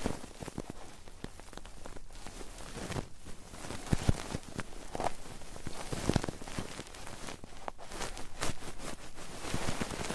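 ASMR ear rubbing and ear cleaning close on the microphone: irregular crackling and scratching, with a few soft knocks about four and six seconds in.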